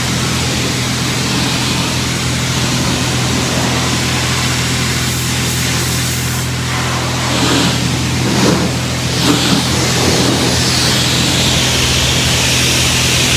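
Pressure washer running steadily with a constant motor hum and the hiss of its water spray, the spray brightening near the end.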